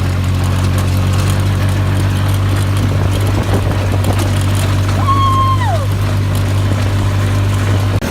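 A vehicle engine running steadily under a rush of wind and motion noise, the hum dropping away right at the end. About five seconds in, a brief high-pitched sound rises, holds and falls.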